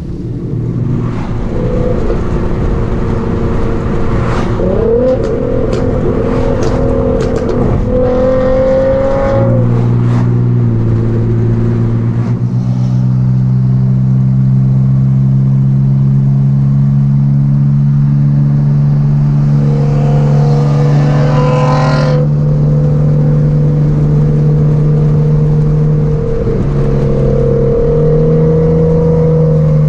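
Car engine under way on the road: it revs up twice, drops in pitch as it shifts gear about nine seconds in, then cruises steadily. It rises again briefly about twenty seconds in and steps in pitch near the end.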